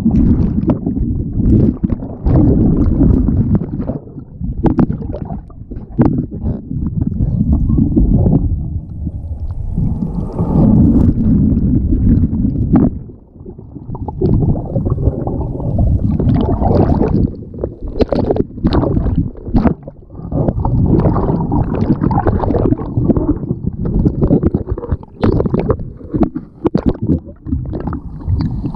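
Seawater churning, sloshing and gurgling close against the microphone, with many splashes and knocks, as a kayak comes in through breaking surf and is tumbled by the waves.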